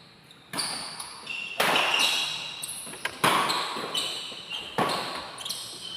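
Badminton rally: rackets striking the shuttlecock about every one and a half seconds, four hits, with short high squeaks between them.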